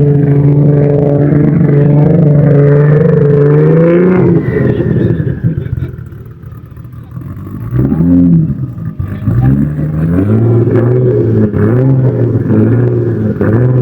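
Sports car engine held at steady revs, then climbing in pitch and fading away; from about eight seconds in, a car revving in a string of short throttle blips, roughly one to two a second.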